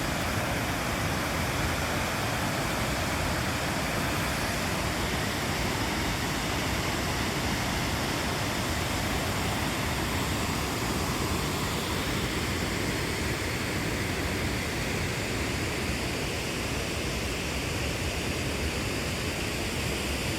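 Torc Waterfall: falling water rushing with a steady, unbroken hiss.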